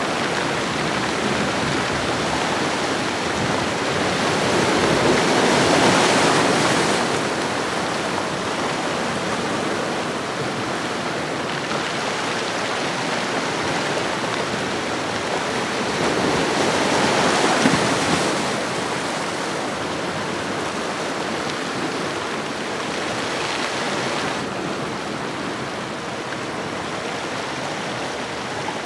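Ocean waves washing onto a shoreline: a steady rush of surf that swells louder twice as waves break, with a smaller swell later on.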